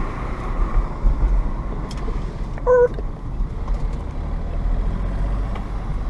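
Smart car's small three-cylinder engine and road noise heard from inside the cabin as it drives slowly, a steady low rumble. A short beep sounds once, a little under halfway through.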